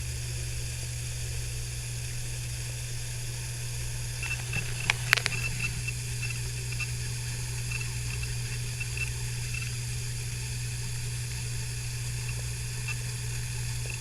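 A blue-tongued skink eating yogurt and greens: faint wet mouth clicks, with a short cluster of sharper clicks about five seconds in, over a steady low hum and hiss.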